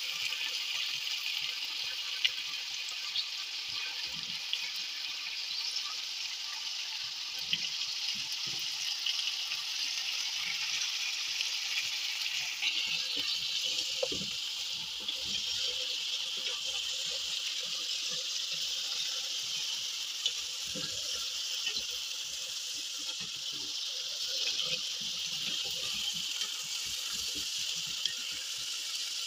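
Lamb and potato chunks sizzling steadily in a hot pot as they brown, with a few light knocks of a wooden spatula stirring them.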